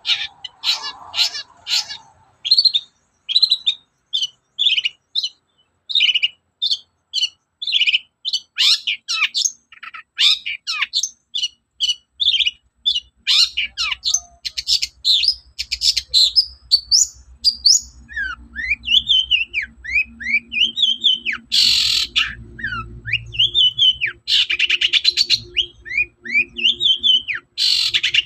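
Long-tailed shrike (cendet) singing a fast, varied song of short chirps and whistled notes, broken in the second half by several loud, harsh rasping calls.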